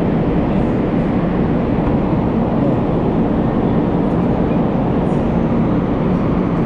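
Steady, loud rumble of a bullet train with a low hum running under it, even throughout.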